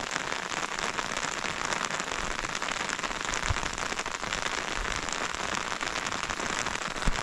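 Heavy rain falling steadily, a dense patter of drops hitting a surface. A dull knock sounds about halfway through and a louder one near the end.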